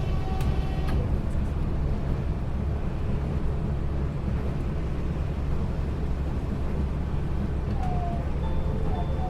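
Inside an Okinawa Yui Rail monorail car running between stations: a steady rumble of the running gear on the elevated guideway, even in level throughout. Near the end, some electronic tones come in.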